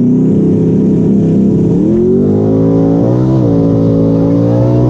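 Twin-turbo Mustang drag car's engine running hard at high revs during a pass, its pitch stepping up about two seconds in and shifting again a second and a half later.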